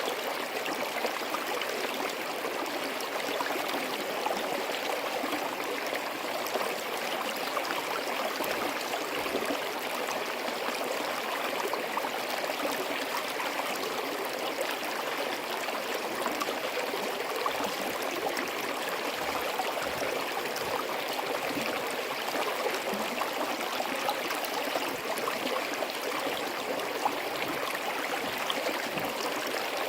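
A small forest stream running steadily over rocks, a constant bubbling rush of water.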